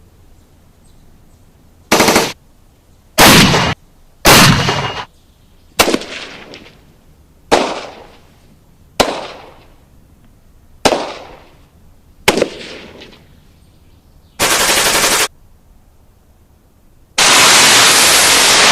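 A run of separate gunfire sound effects, about ten in all. Short bursts of automatic fire alternate with single shots that each trail away over about a second. A longer loud burst starts near the end.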